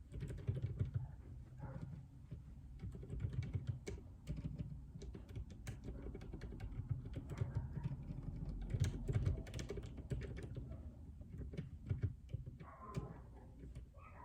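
Steady typing on a JJK84 mechanical keyboard with Outemu Silent Peach linear switches: a dense run of damped, low key strokes.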